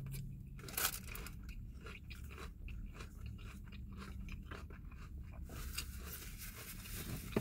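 A person chewing a forkful of salad with crunchy greens: a run of small, irregular crunches that thins out about five and a half seconds in.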